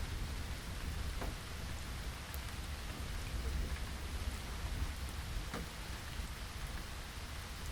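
Steady rain falling, an even hiss of rain on surfaces with a low rumble underneath, and a couple of distinct drops about a second in and near the middle.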